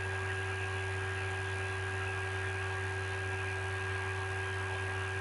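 Steady electrical hum with a constant hiss, the noise floor of the voice-over recording between sentences.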